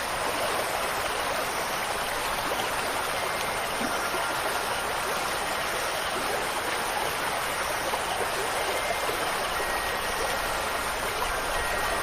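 Steady rushing water, an even unbroken wash of sound, with a few faint ringing tones of wind chimes from about four seconds in.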